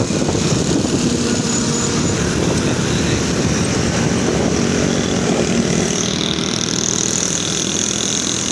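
Steady vehicle and road noise, heaviest in the low range, from a ride on a two-wheeler.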